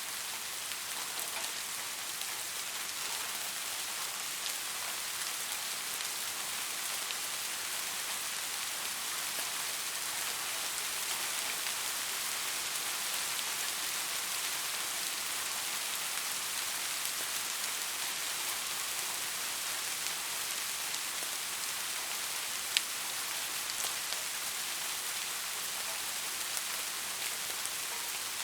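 Steady rain falling, an even hiss with scattered individual drops ticking, one sharper drop hit about 23 seconds in.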